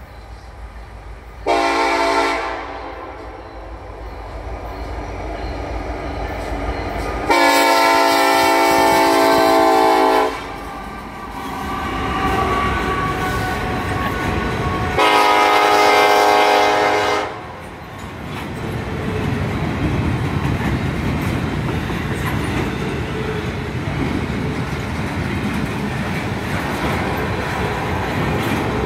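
Norfolk Southern diesel locomotive's air horn sounding three chord blasts, one short then two long, over the low rumble of the engines as it approaches. From about eighteen seconds in, the double-stack intermodal cars roll past steadily with wheel clatter.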